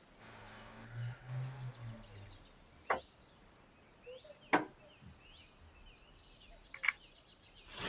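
Three sharp knocks, about two seconds apart, over small birds chirping in the background.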